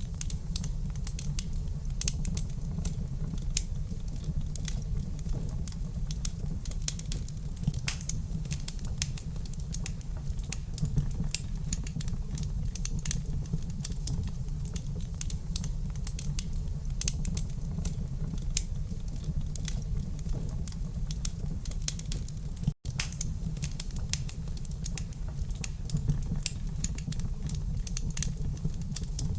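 Wood fire in a fireplace crackling, with frequent small sharp pops and snaps over a steady low rumble of the flames. The sound cuts out for an instant about 23 seconds in.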